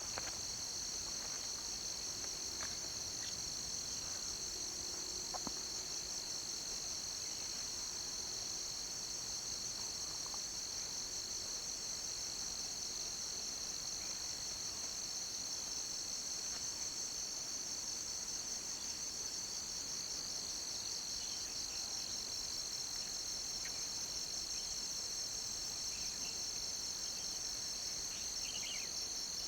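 Dense, steady chorus of crickets or similar insects, a continuous high-pitched trilling with a fast even pulse, with a few faint short bird chirps now and then.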